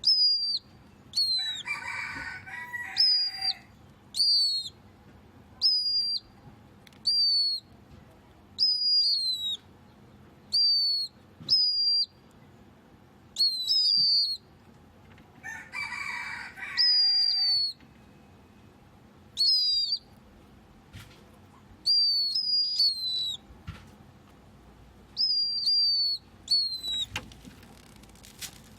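A pet bird of an unidentified species calling over and over. Each call is a short high whistled note that falls in pitch, repeated about once every second or so. Twice, about two seconds in and again past the middle, a louder, harsher, noisier burst of sound comes in.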